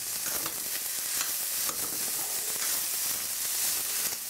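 Rice and mixed vegetables stir-frying in a stainless steel pan: a steady sizzle, with a few light scrapes of a metal spoon stirring against the pan.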